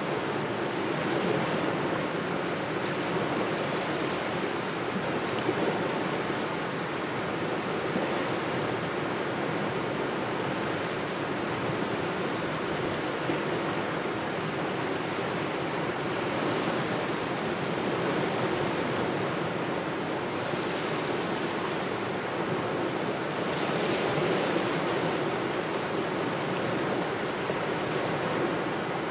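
Small waves washing steadily on the shore under a cold autumn wind, a constant rushing with slight swells in level.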